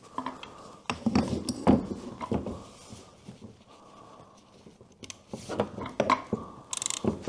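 Small metallic knocks and clicks of tools and the oil filter being handled while the new filter is fitted up under a BMW R1100GS boxer engine. There are two clusters of knocks, and a run of quick clicks near the end.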